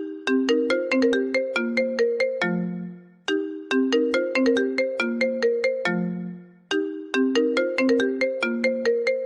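iPhone ringtone: a marimba-like melody of quick struck notes, each phrase ending on a longer low note. The phrase loops about every three and a half seconds with a short pause before each repeat.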